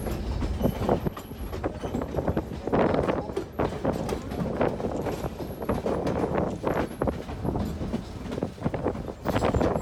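White Pass & Yukon Route passenger train rolling along the track: a low rumble with a steady, irregular clatter of wheels and couplings.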